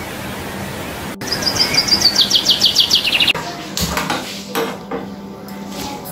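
A songbird chirping in a fast run of short falling notes, about eight a second, for about two seconds. Then a few sharp clicks and a knock as a gas stove burner is lit with a hand-held lighter.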